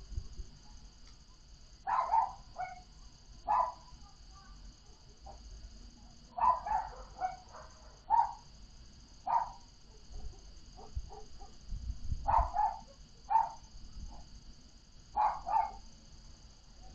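A dog barking in short bursts, one to three barks at a time, every few seconds, over a faint low rumble of wind.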